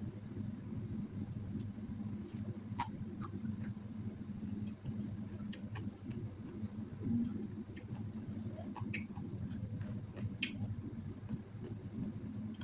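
A person eating, with scattered soft clicks and smacks of chewing and mouth sounds over a steady low hum.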